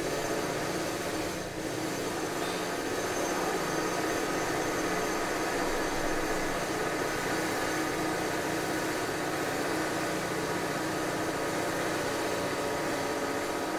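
Construction machinery running steadily: an even, loud mechanical noise with a hum of several steady tones.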